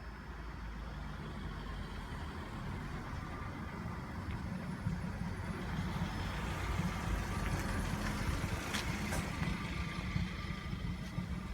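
A heavy vehicle engine running with a low rumble, slowly growing louder about halfway through.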